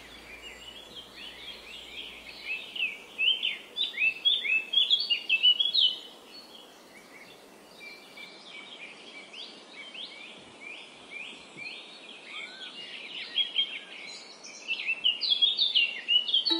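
Small birds chirping: a dense chatter of short, quick chirps, busiest in the first six seconds and again near the end, sparser in between.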